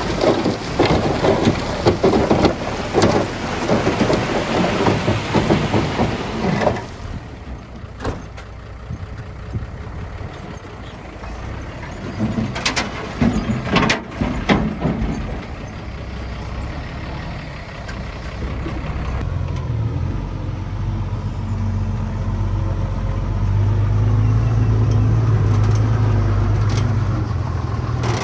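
Heavy diesel earthmoving machinery at work: loud clattering engine noise for the first several seconds, then quieter with a few sharp knocks, and a steady low engine drone building up over the last third.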